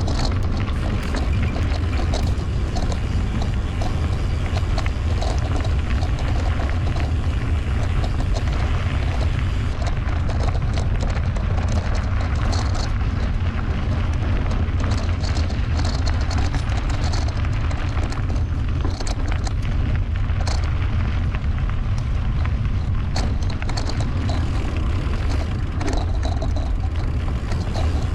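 Wind buffeting the camera microphone during a mountain bike ride, a steady low rumble, with scattered clicks and rattles of the bike over the trail.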